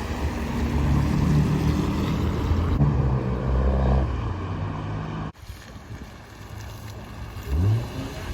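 Car engine running with a steady low hum that shifts pitch a few times. After a sudden cut it is quieter, and a short rising rev comes near the end.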